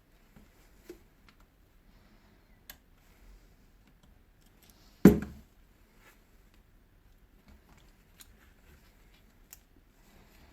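Scattered small metal clicks and taps of a hand tool working a retaining ring (circlip) off the shaft of a Hilti DD 130 core drill, with one louder metallic knock about five seconds in.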